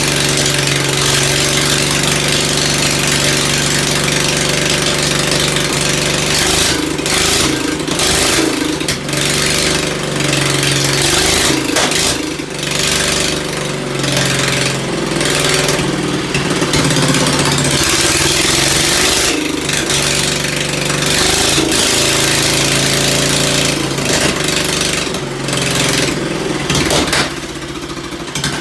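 Ford engine running after a rebuild and tune-up, holding a steady note, with its pitch wavering up and down now and then.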